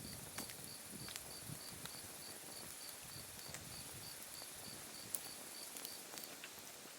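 Autumn night insects calling: one repeats short high chirps about three times a second, while another keeps up a thin, higher trill that fades and returns. A wood fire's embers crackle with scattered sharp pops, the loudest about five seconds in.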